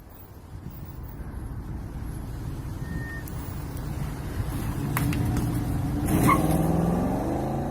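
Road vehicle noise that grows steadily louder. A sharp click comes about five seconds in, then a sudden loud sound just after six seconds, followed by a wavering pitched sound lasting over a second.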